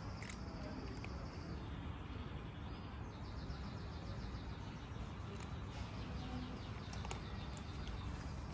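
Small birds chirping in quick, high repeated notes over a steady low outdoor rumble, with a few sharp clicks.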